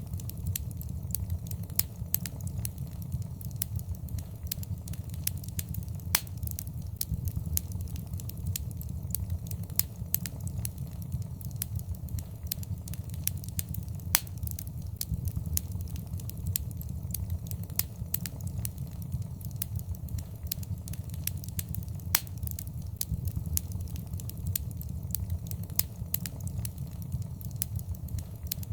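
Wood fire in a fireplace crackling, with frequent irregular sharp pops and snaps over the steady low noise of the burning flames.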